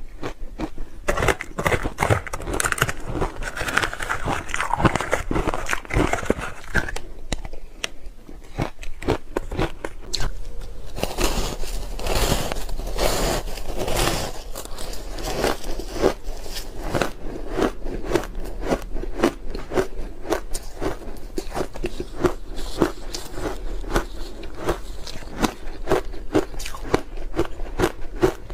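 Close-up biting and chewing of ice, with rapid, dense crunching and crackling.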